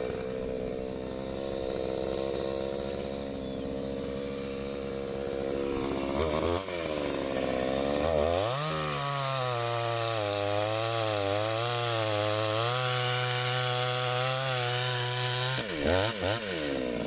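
Chainsaw engine running at lower revs, revving up twice, then held at high revs with a wavering pitch for about seven seconds while cutting firewood, and dropping back near the end.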